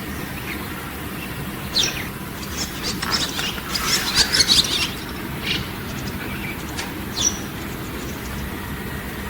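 Wild songbird calls: a short call about two seconds in, a quick run of chattering notes from about three to five seconds, then single calls twice more, over a steady low background rumble.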